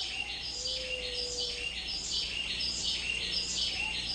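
Rainforest ambience: a high, buzzy call repeating evenly about once every 0.7 seconds, with a faint short whistle about half a second in.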